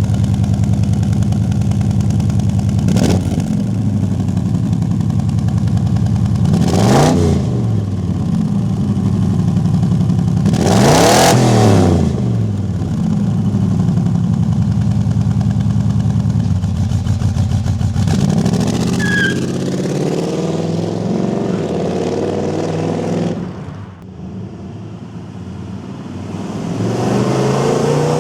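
Jasper 383 stroker V8 of a 1968 Chevrolet C10 idling with a deep, steady exhaust note, blipped three times so the revs rise and fall quickly. Later the engine speed changes and climbs again as the revs vary, with a brief dip in loudness before rising once more.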